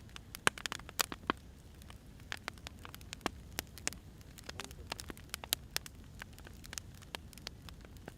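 Burning firewood crackling, with frequent irregular sharp pops over a soft low rumble.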